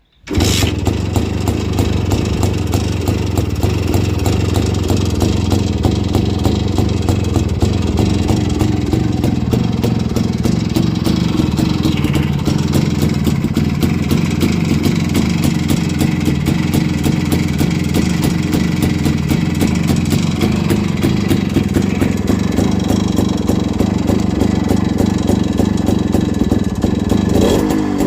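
Two-stroke single-cylinder engine of a CZ 150 C motorcycle, in unrestored as-found condition, running steadily at idle with a dense, even popping beat.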